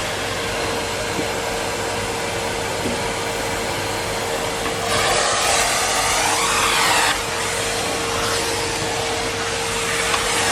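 Numatic Henry Pet cylinder vacuum cleaner running with a steady motor whine and a rush of air. About halfway through, the rush gets louder for a couple of seconds and its pitch sweeps up and down.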